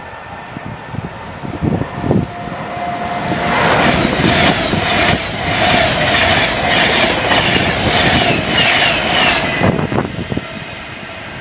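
Passenger train passing through at speed: a loud rush of wheel noise rising about three seconds in, with a fast steady clickety-clack of wheels over the rail joints and a steady whine, then dying away near the end.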